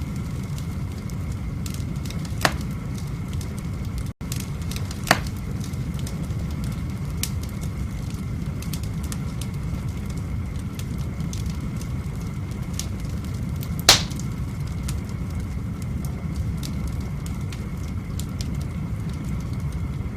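Wood fire burning in a fireplace: a steady low rumble with scattered faint crackles and three sharp pops of burning logs, the loudest about two thirds of the way through.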